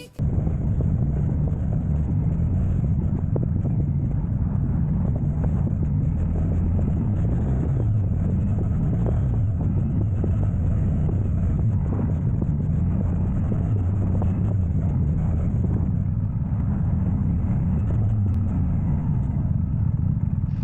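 Car driving at a steady speed: a continuous low rumble of engine and road noise with no revving.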